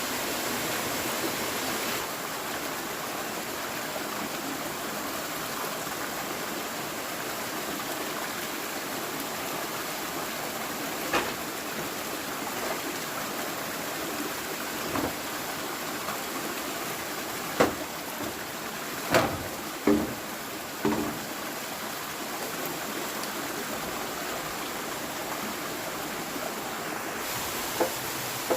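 Steady rushing of water, with a handful of short sharp knocks and taps from about a third of the way in.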